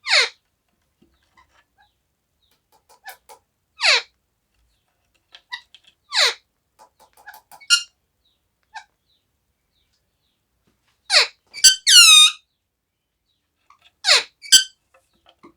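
Pet parrot giving short, sharp squeaky calls that each drop in pitch, about six of them a few seconds apart. A longer call with several tones comes about twelve seconds in, and faint clicks fall between the calls.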